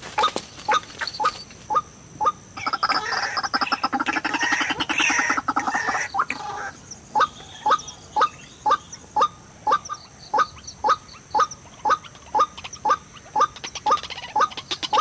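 White-breasted waterhen calls: a steady series of short rising notes, a little over two a second, broken from about two and a half to six and a half seconds in by a loud, harsh squawking chorus.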